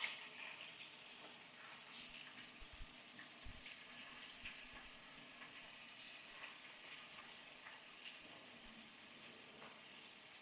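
Fish frying in hot oil: a faint, steady sizzle with scattered small crackles. A short click comes right at the start.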